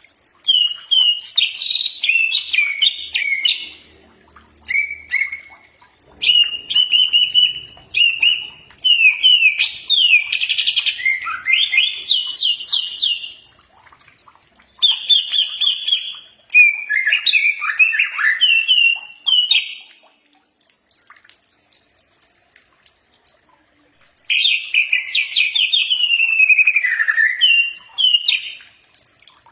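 Cucak ijo (green leafbird) singing: bouts of quick, varied chirps and trills of a few seconds each, broken by short pauses and one longer silence near the middle.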